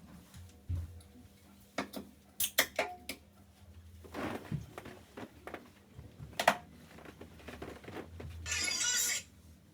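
Scattered knocks and clicks of things being handled, loudest about two-thirds of the way in, with a short hissing rustle for about a second near the end.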